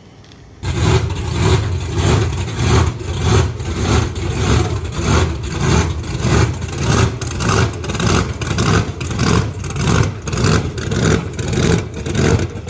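A loud engine revving in quick repeated surges, about two or three a second, cutting in suddenly just after the start.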